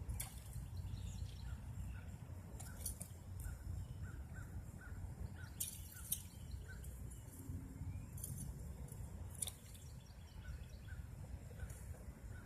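A small bird chirping repeatedly in short high chirps, every half second or so, over a low wind rumble on the microphone, with a few brief rattles.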